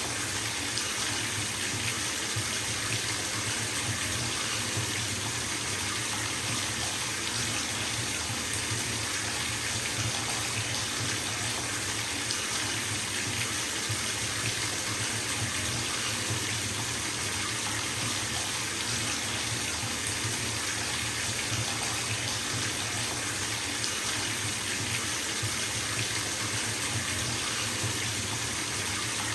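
Bathtub filling from a running tap: water pouring steadily into the tub as an even, unbroken rushing hiss.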